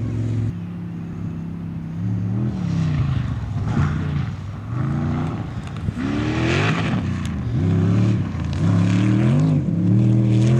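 An off-road vehicle's engine revving up and down over and over, its pitch rising and falling about every second and a half, as when it is worked hard through the sand.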